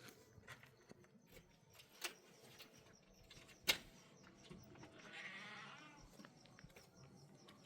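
Faint outdoor sounds: two sharp clicks, the louder one a little before four seconds in, and a short wavering animal cry around five seconds in.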